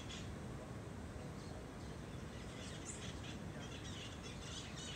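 Birds chirping in short, scattered calls, with one brief high chirp about three seconds in, over a steady low outdoor rumble.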